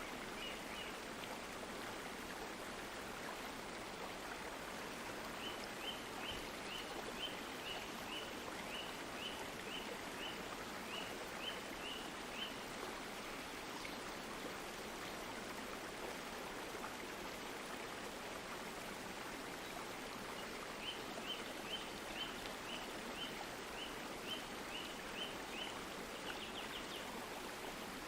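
Stream of water flowing steadily. Over it come two runs of short high chirps, about two a second, each run lasting several seconds.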